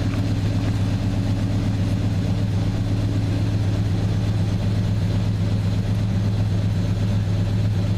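1995 Chevy Tahoe's throttle-body-injected 350 V8 idling steadily, warming up just after a cold start in about 11-degree weather.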